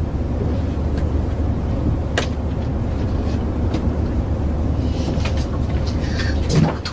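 Steady low drone of an airliner cabin in flight, with a few small clicks and some faint rustling near the end.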